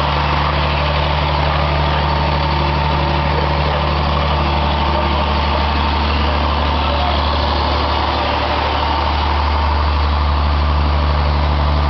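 Toyota 3S four-cylinder petrol engine, converted to run on biogas, idling steadily with a low, even hum that grows slightly louder about nine seconds in.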